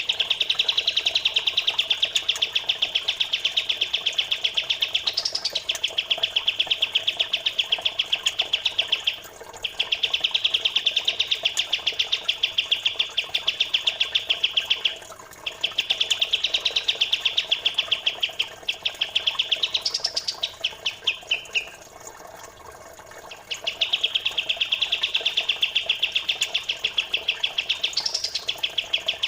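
A birdsong training recording of fast, tight runs of high chirps. Each run lasts several seconds and is broken by short pauses, over a faint background of trickling water.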